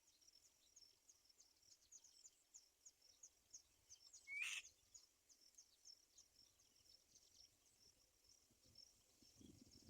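Faint, fast high-pitched chirping of insects, several short chirps a second, with one brief louder sharp call about halfway through.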